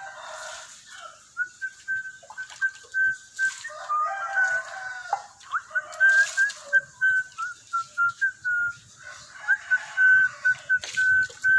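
Pet parrot chirping and whistling: a long run of short notes at a steady pitch, broken by a few quick slides up and down.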